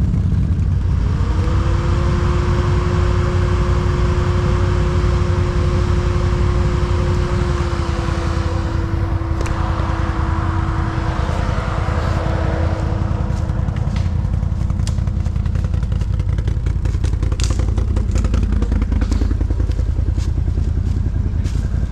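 ATV engine held at high revs for about fifteen seconds, its pitch steady with a slight drop halfway, while the quad is stuck in the forest. The revs then fall away, with scattered knocks and cracks near the end.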